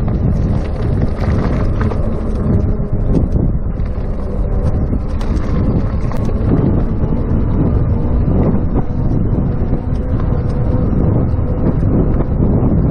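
Steady wind buffeting a chest-mounted GoPro's microphone while riding an electric bicycle.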